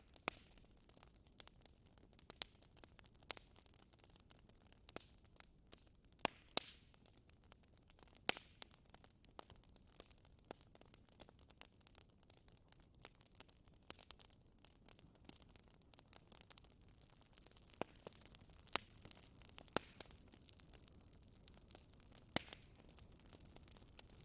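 Wood fire crackling in a fireplace: a faint steady hiss with irregular sharp pops and snaps, a few standing out louder than the rest.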